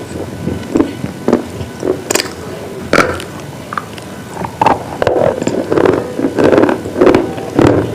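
Close-miked crunching of hard, chalky slate-type pieces being bitten and chewed: a few sharp, separate bites at first, then denser chewing crunches from about five seconds in.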